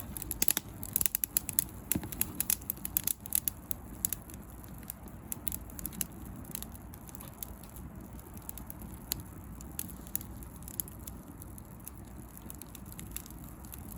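Bonfire of dry pruned rose branches crackling and popping as it burns well, with many sharp pops over the first few seconds thinning to occasional snaps over a low steady flame noise.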